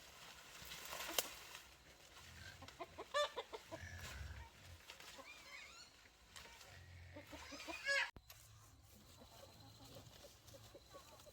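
Chickens clucking in short calls, with a sharp click about a second in; the sound drops off suddenly about eight seconds in.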